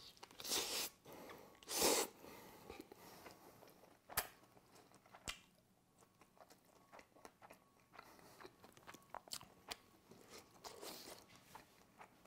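A person biting into and chewing a slice of rice-crust pizza with melted cheese, close to the microphone: a few louder crunchy bites in the first two seconds, then softer, scattered chewing clicks.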